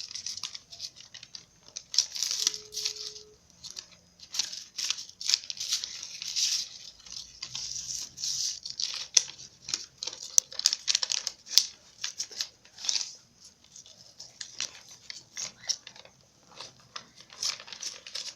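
Paper crinkling, rustling and scraping in irregular bursts as a sheet is folded and handled into a paper airplane.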